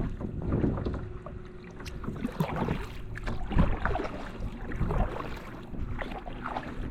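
Water lapping and splashing against a kayak, in uneven swells every second or so.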